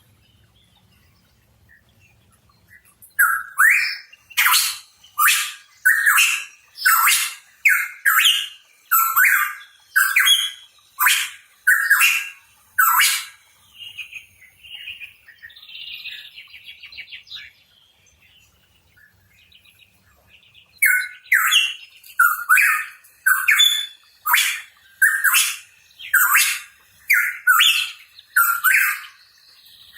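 Pitohui singing: two runs of loud, evenly repeated upslurred notes, about one a second, with a short stretch of softer, scattered notes between the runs.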